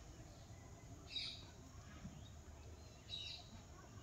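Faint background with two short, high bird chirps, one about a second in and another about three seconds in.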